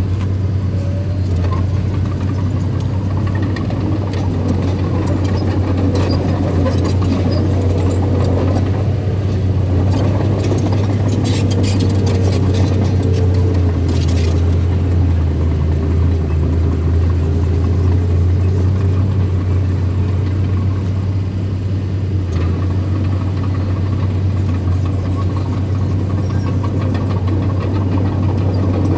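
Heavy diesel engine of earthmoving machinery running steadily with a deep hum. A scatter of short knocks comes a little before the middle, and then the engine note drops lower for a few seconds before rising back.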